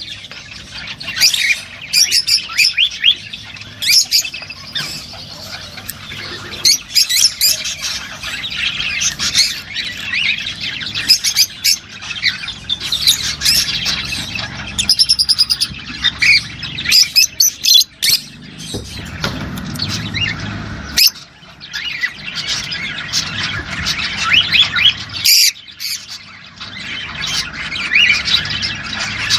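A group of rosy-faced lovebirds keeps up a rapid, shrill chatter of squawks and chirps, with a few brief lulls; this is the calling of birds in breeding condition, used to stimulate mating.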